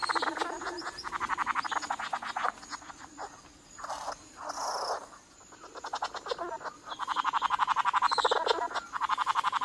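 Male flame bowerbird's courtship display call: a fast, buzzing rattle given in two long bouts, at the start and again from about seven seconds in, with shorter, softer calls between them.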